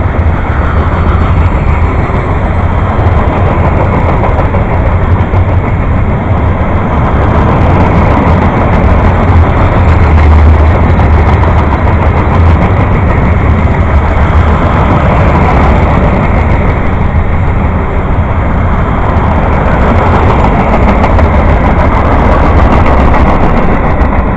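Freight train of covered hopper cars and boxcars rolling past close by, its steel wheels on the rails making a steady, loud rumble.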